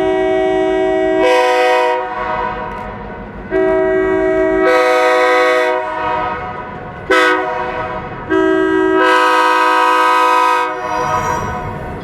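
Diesel locomotive's multi-chime air horn sounding the grade-crossing signal: two long blasts, one short, one long, over the low rumble of the train.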